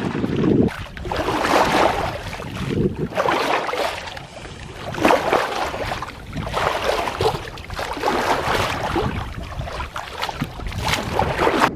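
Water rushing and splashing along a sailing yacht's hull, swelling and fading in surges every second or two.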